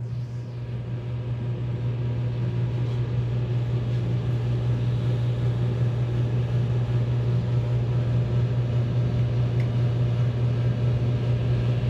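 Car engine running with a steady low hum and a faint noisy wash of sound over it, slowly getting a little louder.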